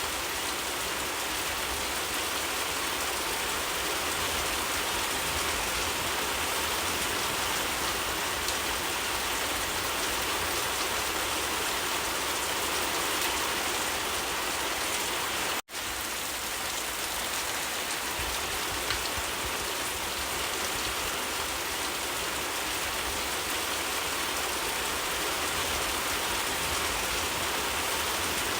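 Steady, even rain falling. The sound drops out completely for an instant about halfway through, then carries on unchanged.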